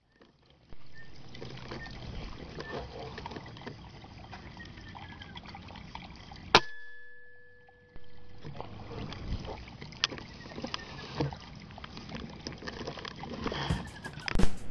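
Rustling and movement through rice-field vegetation, with one sharp, loud gun crack about six and a half seconds in that rings briefly, typical of a shot at a bird.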